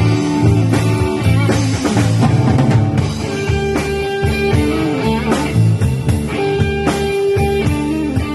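Rock band playing an instrumental passage: guitar over a walking low bass line and a drum kit.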